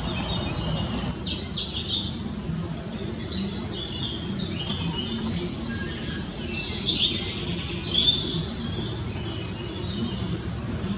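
Small birds chirping, with many short high calls scattered throughout, over a steady low background noise.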